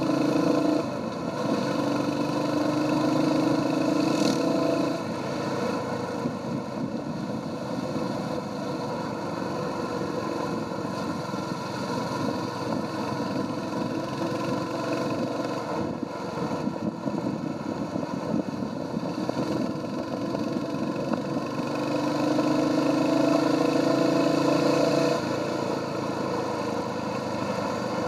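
Royal Enfield Hunter 350's single-cylinder engine running through its stock exhaust while riding, pulling harder twice, near the start and again about three quarters of the way through, between steadier cruising.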